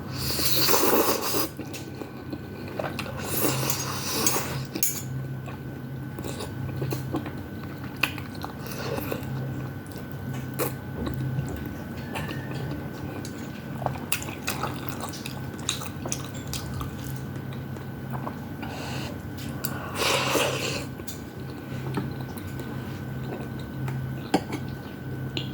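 Eating sounds from a bowl of udon: utensils clicking against the bowl, with wet bites and three louder bursts of noise about a second, four seconds and twenty seconds in. A steady low hum runs beneath.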